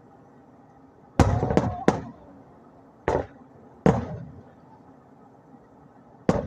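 Aerial firework shells bursting: six sharp booms, three in quick succession about a second in, then single bangs near three and four seconds and one more near the end, each trailing off in a short echo.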